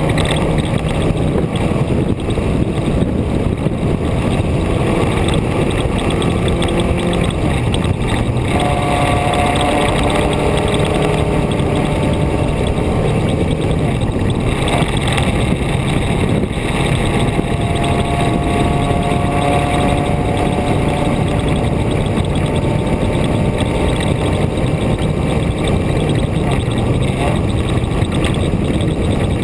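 A vehicle driving on a winding mountain road: a loud, steady rushing noise over an engine whose pitch rises and falls as it speeds up and slows.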